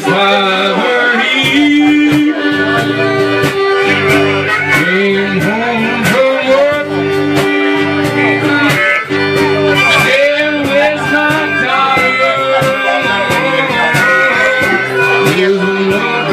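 Instrumental break of a folk ballad: an acoustic guitar strummed in a steady rhythm under a sustained melody line.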